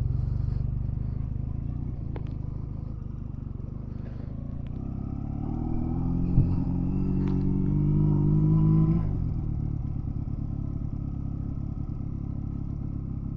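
Honda Rebel 250 motorcycle engine running while riding. Its pitch rises as it accelerates from about five seconds in, then falls back just before nine seconds as the throttle closes. There is one sharp knock around six seconds.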